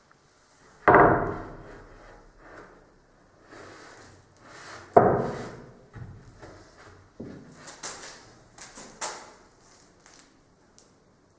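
Two loud bangs, about a second in and about five seconds in, each ringing out and fading, among lighter knocks and clatter.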